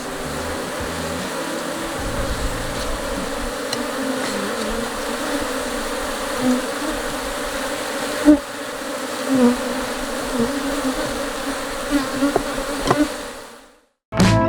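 Honeybees buzzing around an open hive, a steady many-toned hum with a few short knocks; it fades out near the end.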